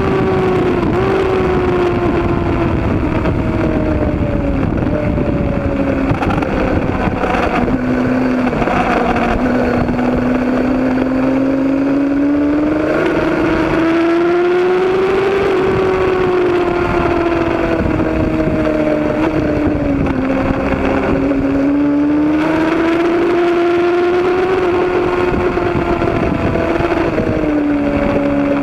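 Road-racing motorcycle engine running hard at high revs, its pitch climbing and falling as the throttle opens and closes, with short dips at gear changes, over a rush of wind noise.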